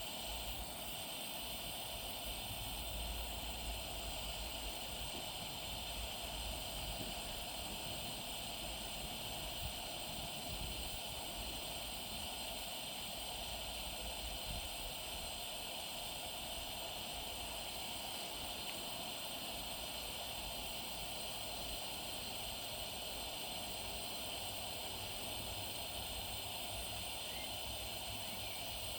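Coleman dual fuel pressurised lanterns burning with a steady, gentle hiss of fuel vapour through the generator and burners, with a faint low rumble underneath.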